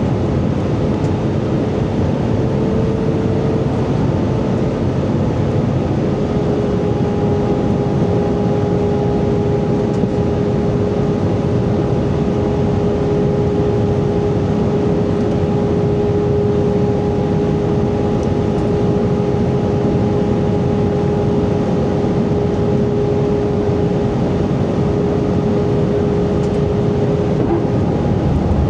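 Airbus A320 cabin noise in flight: a steady rush of air and engine noise with a constant hum from the engines. The hum settles onto a steady pitch a few seconds in.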